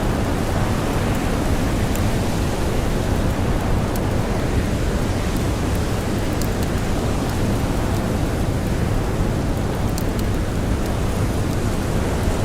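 Blizzard wind blowing steadily, a dense rush heaviest in the low end, with sparse sharp crackles of a campfire scattered through it.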